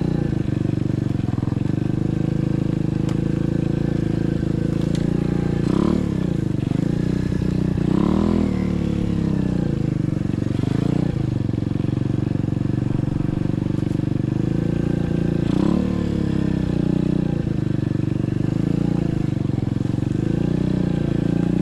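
SSR 125cc dirt bike's single-cylinder four-stroke engine running under way. The revs rise and fall several times, around 6, 8, 11 and 16 seconds in.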